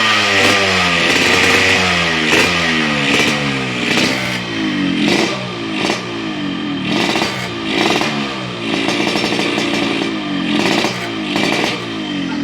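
Yamaha RX King's two-stroke single-cylinder engine revved through an aftermarket 'telo' racing exhaust, its pitch rising and falling with each of many throttle blips, about one a second. Near the two-thirds mark the revs are held steady briefly before the blipping starts again.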